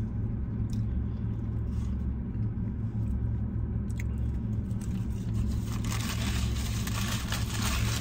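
Chewing and crunching on a fried corn nugget over the steady low rumble of an idling car. About six seconds in, louder scratchy crackling joins.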